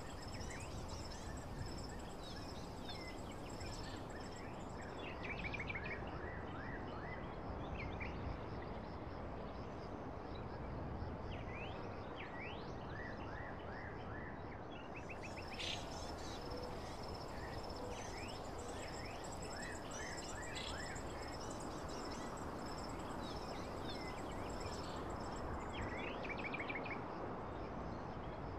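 Birds chirping in scattered short calls and quick trills over a steady background hiss, with a thin high-pitched whine running under them.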